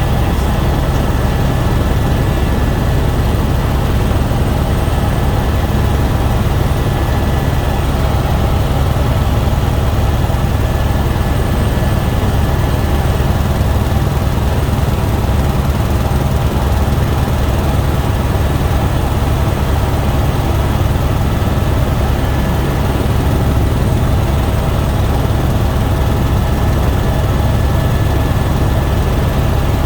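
Helicopter turbine and rotor noise, a steady, unbroken drone with a few constant tones over it.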